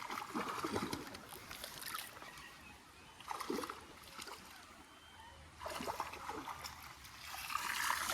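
Intermittent water splashing in a shallow creek as a hooked smallmouth bass is fought and drawn in, coming in several separate bursts with a quieter spell in the middle.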